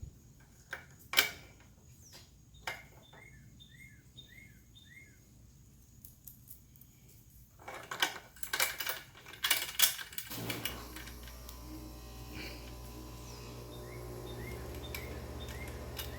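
Small metal clinks and clattering of hardware being handled, with a bird chirping four times, twice over. About ten seconds in, an air conditioner starts up and keeps running with a steady low hum.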